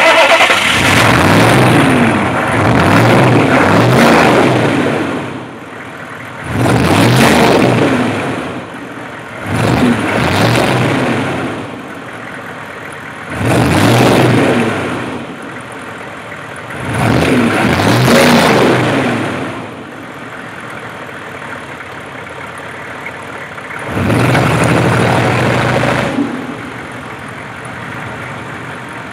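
Straight-piped 6.5-litre turbo diesel V8 idling and being revved about six times, each rev climbing and falling back over a few seconds.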